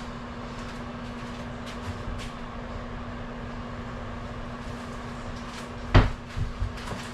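Kitchen handling sounds over a steady low hum: faint clicks, then a sharp knock about six seconds in, followed by two lighter knocks, as of a container or cupboard door being set down or shut.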